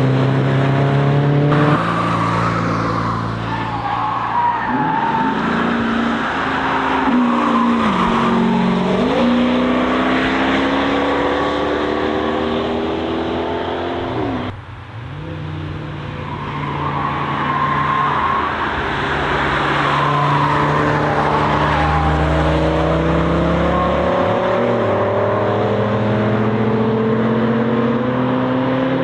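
Car engines braking down through the gears and accelerating back up through a tight corner on a racetrack, with tyres squealing under cornering. The sound breaks off abruptly about halfway, and a second car follows with the same drop in revs, tyre squeal and climbing engine note.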